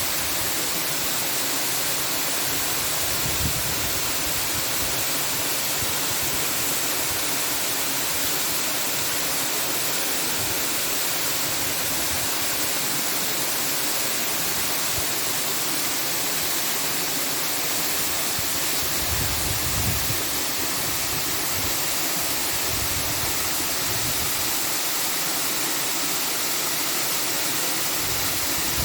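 Steady, even rushing noise with a few faint low rumbles.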